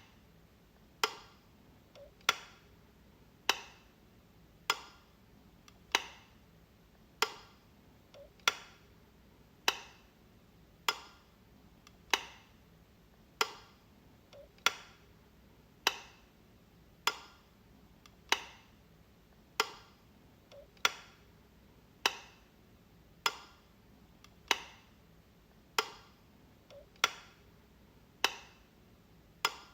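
A light switch being flicked over and over, one sharp click about every 1.2 seconds.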